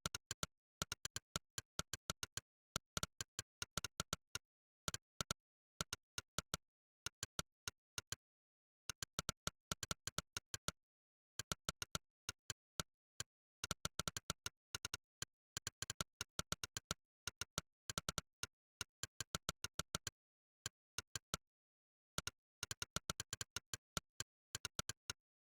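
Monkeytype's synthesized 'click' typing sound, one short click per keystroke, in quick irregular runs with brief pauses between words, stopping just before the end.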